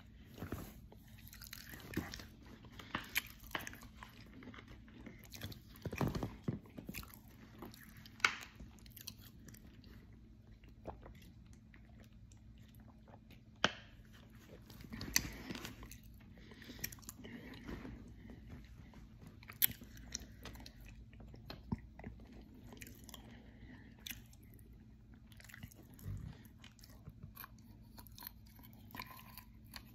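Close-mic chewing and crunching of dry edible clay, with irregular sharp crunches scattered among softer chewing.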